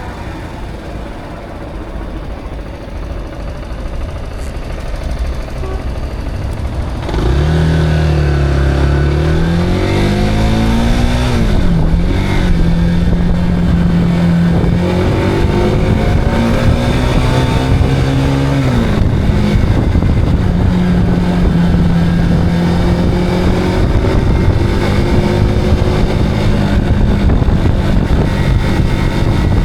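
Zontes cruiser motorcycle engine, heard from the bike while riding. It is quieter at first, then about seven seconds in it pulls away hard, the engine note climbing and dropping back at two upshifts before settling into a steady cruise.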